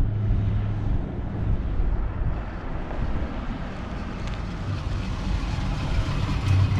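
1956 Chevrolet Bel Air with a 350 cubic-inch V8 and dual exhaust, driving slowly up: a low, steady exhaust rumble that grows louder as the car approaches.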